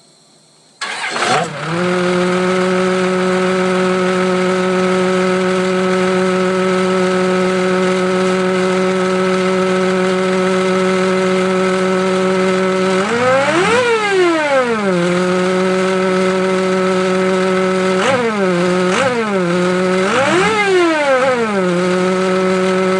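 An engine starts up after a moment of silence and settles into a steady idle. About two-thirds of the way in it is revved once, rising and falling over a second or two, and near the end it is blipped three quick times.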